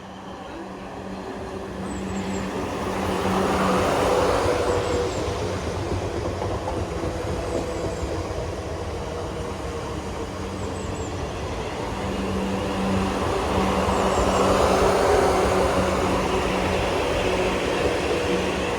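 Passenger train running at the platform, a loud rumble over a steady hum that swells about 4 seconds in and again around 14 seconds in.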